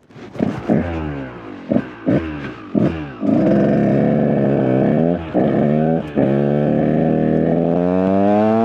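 KTM EXC 125 single-cylinder two-stroke dirt bike engine: a few quick throttle blips, then it runs hard under load, dropping briefly twice and climbing steadily in pitch near the end as it accelerates. The owner says the bike is not running great right now.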